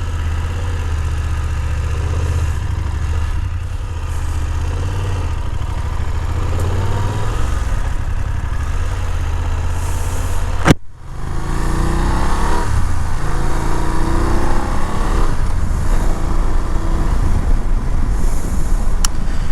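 BMW F 750 GS parallel-twin engine running steadily at low revs, then, after a sharp click about eleven seconds in, louder as the bike accelerates with rising engine pitch.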